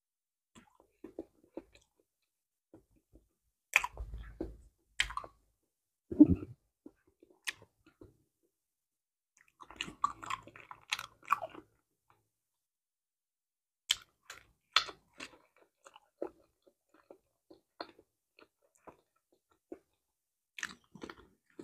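A person chewing ripe banana close to a clip-on microphone: soft, wet chewing and bites with irregular sharp mouth clicks and lip smacks, in short clusters with pauses between.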